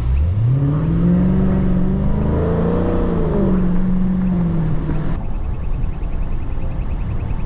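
Dodge SRT Scat Pack's 6.4-litre HEMI V8 under hard acceleration: the revs climb steeply in the first second, then hold high with small rises and dips, and ease slightly in the second half.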